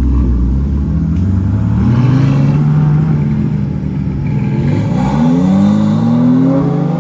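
Aston Martin DB11 accelerating hard past, its engine note rising in pitch, dropping with an upshift and rising again through the next gear.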